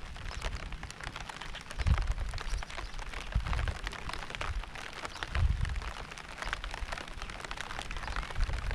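Steady rain pattering in dense fine drops, with a few low rumbles swelling and fading under it, about two, three and a half and five and a half seconds in.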